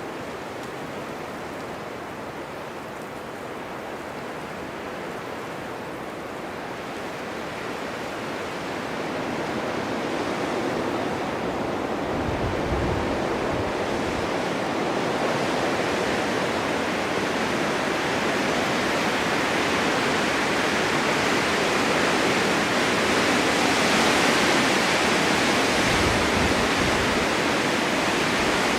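Blizzard wind driving snow: a steady rushing noise that builds in strength from about a third of the way in. There are low buffets of gusts twice.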